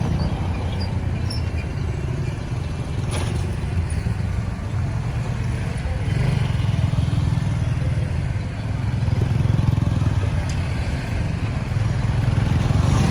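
Road traffic: vehicle engines and tyre noise as a steady low rumble that swells and eases, with a brief sharp knock about three seconds in.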